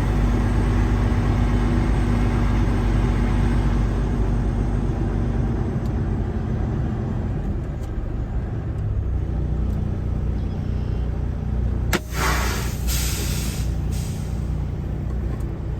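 Kenworth semi truck's diesel engine idling steadily. About twelve seconds in comes a sharp click, then a couple of seconds of hissing air from the air brakes, with another short hiss just after.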